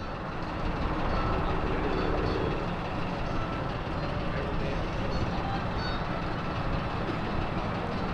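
Steady vehicle noise of engines running, with faint steady tones over it and no single event standing out.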